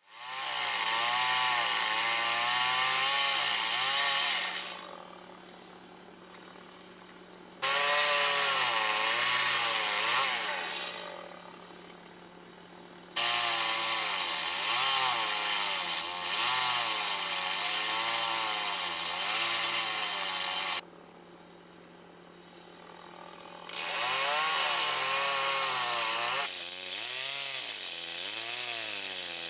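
A small motor running in four separate bursts with short pauses between them, its pitch wavering up and down throughout.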